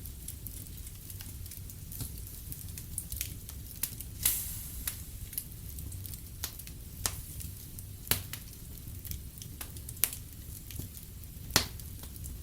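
Wood fire in a fireplace crackling, with scattered sharp pops over a low steady rumble; the loudest pops come about four, eight, ten and eleven and a half seconds in.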